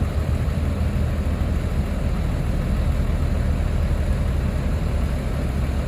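Heavy diesel engine of earth-moving machinery running steadily with a deep, low drone.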